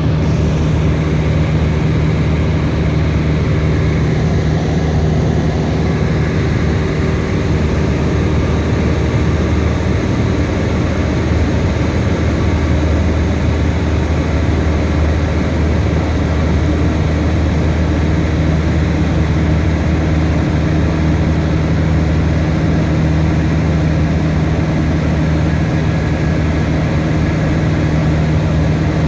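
Loud, steady engine drone with a low hum that holds the same pitch throughout.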